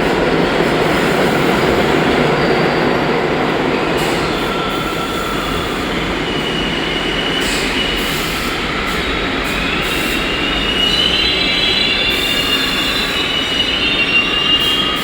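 New York City subway train on the 1 line running along the platform, a loud steady rumble of wheels on rail, with steel wheels squealing in high whines that set in about halfway through and grow stronger near the end.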